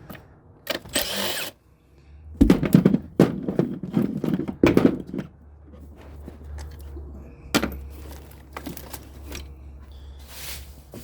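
Clunks, clicks and rattles of hand tools and engine parts as spark plug wires and ignition coils are worked off a V8, loudest in a cluster of knocks between about two and five seconds in. A low steady hum starts about two seconds in.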